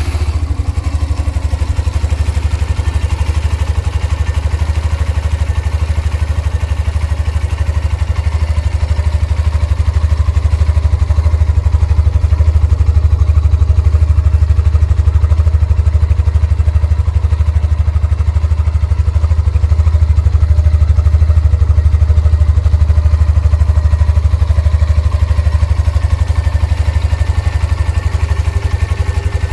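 Hero Xtreme 125R motorcycle's single-cylinder 125 cc engine idling steadily just after being self-started, heard at the exhaust. The idle grows slightly louder after about ten seconds.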